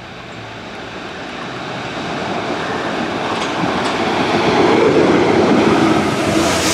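Class 73 locomotive hauling a train of tank wagons approaching and running past. Its rumble and wheel noise grow steadily louder, are loudest from about five seconds in, and a high hiss builds near the end.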